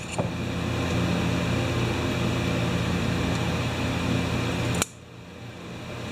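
Steady motor hum that cuts out suddenly about five seconds in, then slowly builds back up.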